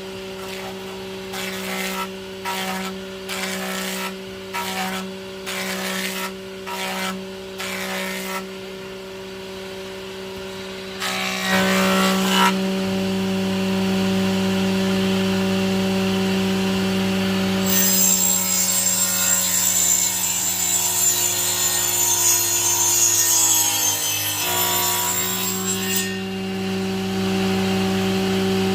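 Power tool running with a steady hum and cutting wood. It makes about eight short regular strokes, then one long continuous cut from about halfway through, with a high whine. Near the end of the cut the motor's pitch sags under load, then recovers.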